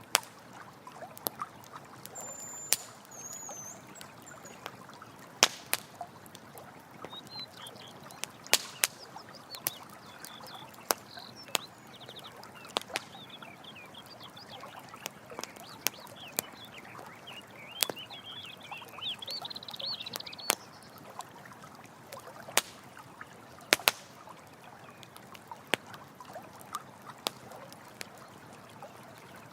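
Campfire crackling, with sharp pops every second or so, over the steady rush of a running stream.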